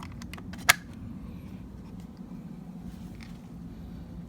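One sharp click from handling a hobby-grade RC drift truck as it is switched on, under a second in, and a fainter tick around three seconds in. A steady low hum runs underneath.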